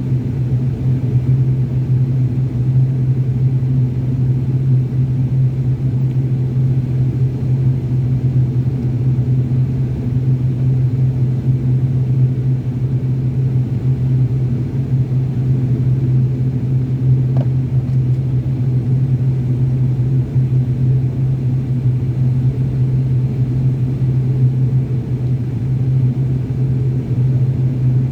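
Aircraft cabin noise from a plane in flight after takeoff: a steady, unchanging low drone with a strong hum.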